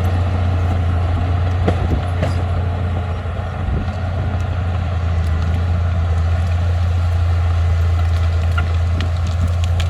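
Heavy diesel engine of an earthmoving machine running steadily at a constant low drone, with a few faint clicks and knocks over it.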